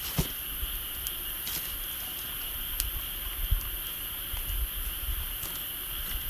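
Wood bonfire crackling with scattered sharp pops, over a steady high-pitched insect chorus.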